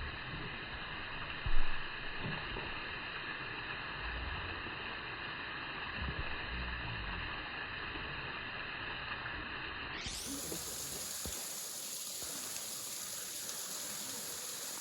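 Steady rush of running water, with one sharp knock about a second and a half in. Near the end the sound changes, turning thinner and hissier.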